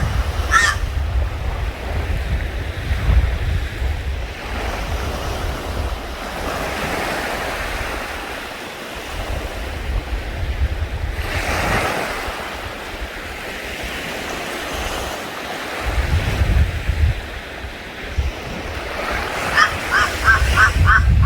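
Wind buffeting the microphone with a gusting low rumble and slow rushing swells like surf. Near the end comes a quick run of short, high calls.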